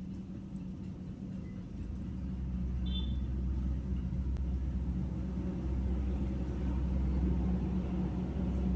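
Low, steady rumble of a motor vehicle engine, growing louder about two seconds in. A single short bird chirp sounds about three seconds in.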